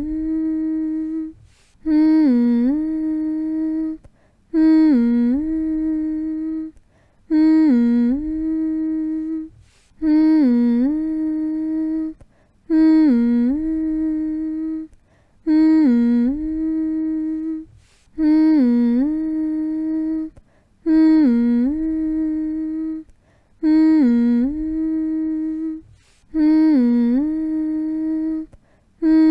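A person humming the same single note over and over to soothe a baby, about one hum every three seconds. Each hum starts with a short dip in pitch, then holds steady for about two seconds before a brief pause for breath.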